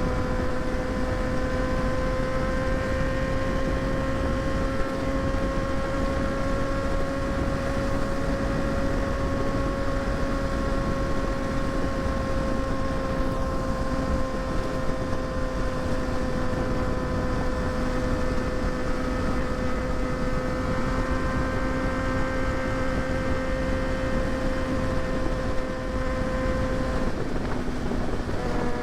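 Kawasaki ZX-6R inline-four engine holding a steady cruise, its pitch rising slightly and then easing down, under wind noise on the microphone. About a second before the end the engine note breaks off briefly and then comes back.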